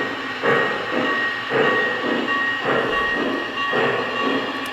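Lionel Legacy Big Boy model's sound system playing steam-locomotive chuffing as the engine runs: slow, even exhaust beats about one a second, over a faint steady tone.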